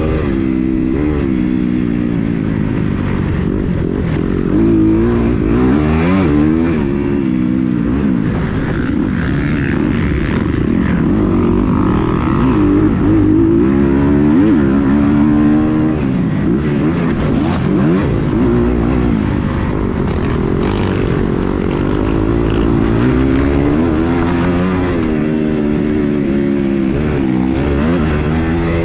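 Kawasaki KX250 dirt bike engine running hard under throttle, its pitch rising and dropping again and again every second or two as the throttle is opened and shut.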